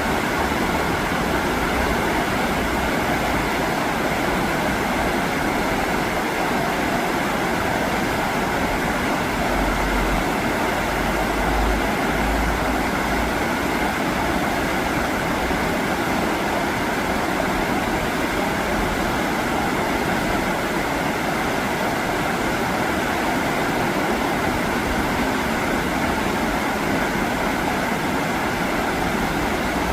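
Fast, rough river current rushing steadily, with a brief low rumble about ten seconds in.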